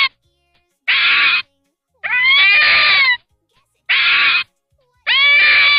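A series of high-pitched animal calls, each about half a second to a second long with a rise and fall in pitch, separated by short silences; the second call is the longest.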